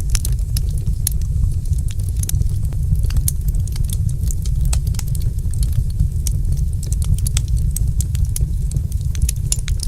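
Wood fire crackling, with frequent irregular sharp pops and snaps over a steady deep rumble.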